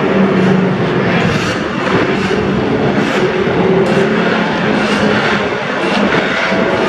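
Several vintage racing motorcycle engines running at once, their notes overlapping at a few steady pitches.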